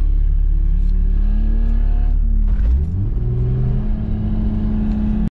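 Jeep Cherokee XJ engine revving under load, heard from inside the cab, as the Jeep tries to drive out of deep mud while being towed. The revs climb slowly, drop about halfway through, then rise again over a steady low rumble.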